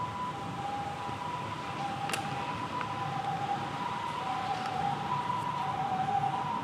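Two-tone ambulance siren, a high and a low note taking turns about every two thirds of a second in the Japanese hi-lo pattern, with a single click about two seconds in.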